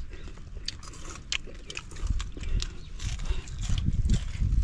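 People chewing and eating cooked fish: irregular sharp clicks and smacks over a low rumble.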